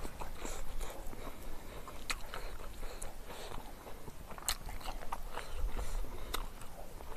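Close-miked chewing and wet mouth smacking of a person eating curry and rice by hand, broken by a few sharp clicks.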